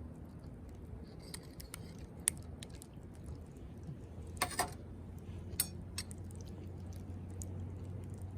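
Wood campfire crackling, with scattered sharp pops over a steady low background, the loudest a short rattle of pops about four and a half seconds in.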